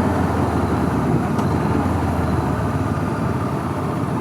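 2014 Honda CB500X's parallel-twin engine running steadily at road speed, mixed with wind and road rush from riding in traffic.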